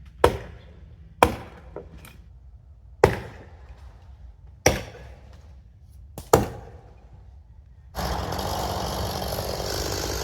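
Heavy blows struck into a standing tree, six sharp cracks a second or so apart, one of them a quick double hit, each ringing briefly. About eight seconds in, a chainsaw starts running steadily.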